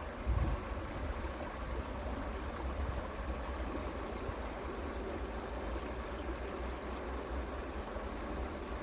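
Creek water running steadily, over a low rumble, with one brief thump about a third of a second in.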